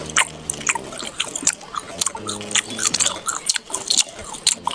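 Close-up chewing of soft watermelon gummy candies: wet mouth clicks and smacks several times a second, with two brief low hummed tones, one at the start and one a little past two seconds in.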